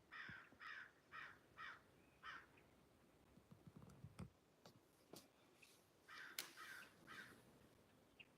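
Crow cawing faintly, five quick caws in a row, then after a pause a further three, with a few light clicks in between.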